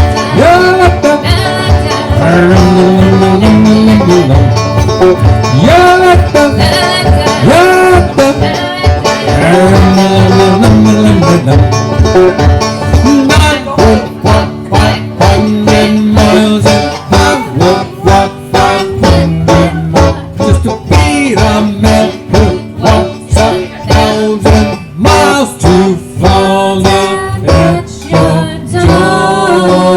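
Live acoustic band music in a country-bluegrass style: banjo and guitar strumming steadily. Wordless sung lines run over the first half, then it is mostly strummed instrumental.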